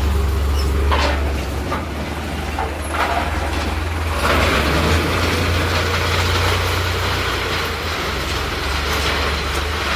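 Farmtrac tractor's diesel engine running with a steady low drone, joined by louder clattering mechanical noise from about four seconds in.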